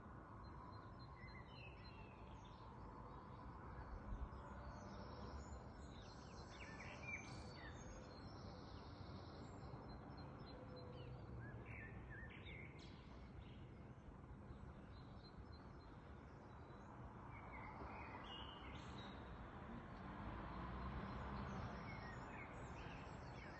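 Birds chirping and singing faintly in short scattered phrases, over a steady low background rumble.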